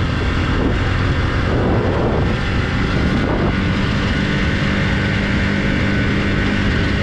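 Motorcycle engine running steadily while riding, a constant low hum.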